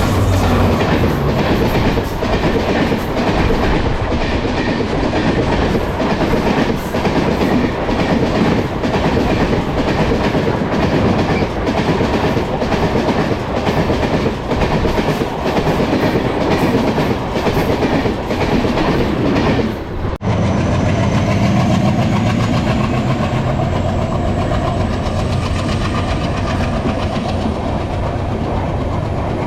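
Train passing close by, its wheels clattering rhythmically over the rail joints. About two-thirds of the way through the sound breaks off for an instant, then comes back as a smoother, steady rumble.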